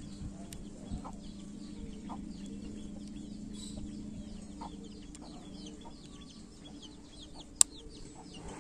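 A bird chirping over and over in short falling notes, three or four a second, over a low steady hum. Soft handling clicks from the small plastic mic receiver, and one sharp click near the end.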